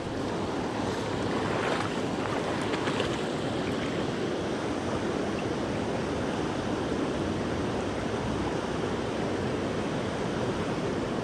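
Creek water rushing steadily over rocks, a constant even roar.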